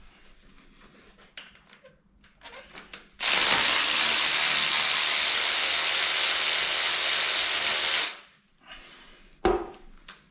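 A power tool runs steadily for about five seconds, starting abruptly and winding down, with a single sharp knock about a second after it stops.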